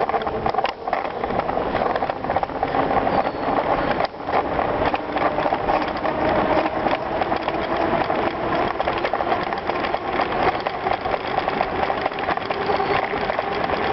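Bicycle riding over a gravel trail: tyres crunching on loose stones and the bike's chain and frame rattling steadily.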